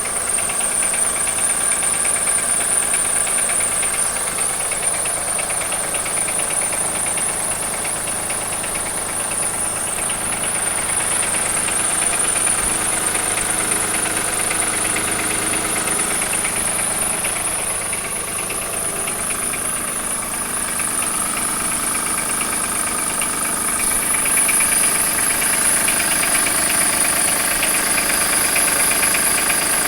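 2003 Acura MDX 3.5-litre V6 running with a fast, steady knocking and ticking, over a steady high-pitched whine. The dealership took the knock for a bad wrist pin or rod bearing; the owner suspects the timing belt has jumped a tooth, and the valves are out of adjustment. It runs a little louder about 24 seconds in.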